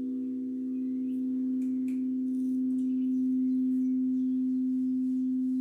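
Singing bowl sounding a steady, sustained low hum with a slight wavering beat. Faint bird chirps come and go above it.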